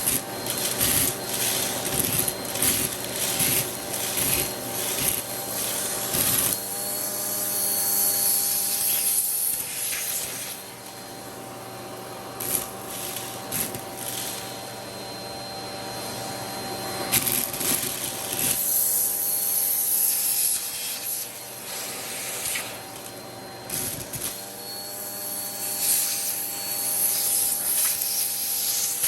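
Vacuum cleaner running with a hand tool attachment: a steady motor hum with scraping, rubbing and rattling as the tool is worked over a surface. The rattling drops away for several seconds in the middle, leaving the motor's hum alone.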